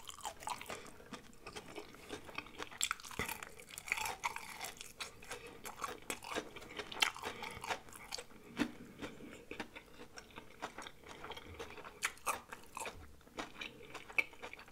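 Chewing and crunching of breaded fried shrimp close to the microphone, with many irregular crisp crackles from the crust.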